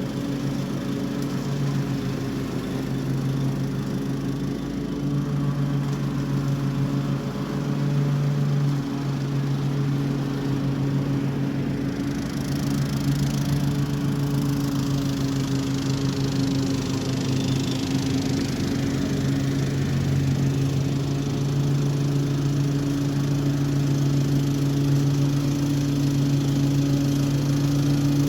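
Toro HDX 30-inch self-propelled petrol mower with mulching kit running steadily while mowing, its engine holding a constant pitch. A stronger high hiss of cutting comes in for several seconds around the middle.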